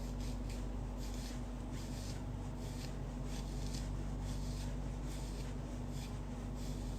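Rhythmic rubbing, about three soft strokes a second, over a steady low hum: a towel being rubbed on hair to dry it.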